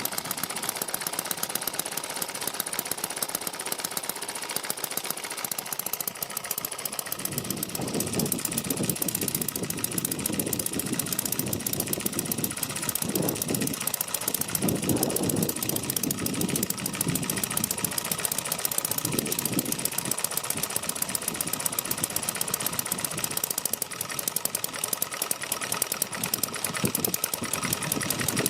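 Microcosm M92 model engine running steadily with rapid, even firing strokes. It has retarded ignition timing and a shortened governor spring, and exhausts through an extended exhaust pipe. From about seven seconds in, irregular low rumbles come and go under the running.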